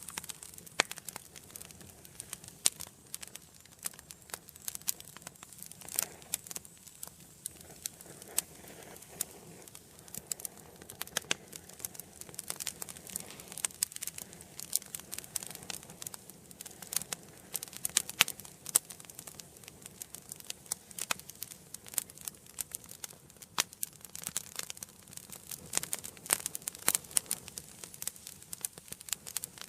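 Wood fire burning in an indoor fireplace: irregular sharp crackles and pops, several a second, over a soft steady hiss of flame.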